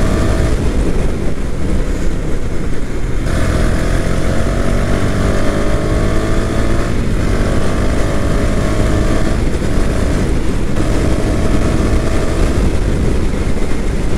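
KTM 250 Duke's single-cylinder engine pulling hard under acceleration, its pitch climbing slowly between short breaks a few seconds apart at gear changes, over steady wind rush on the microphone.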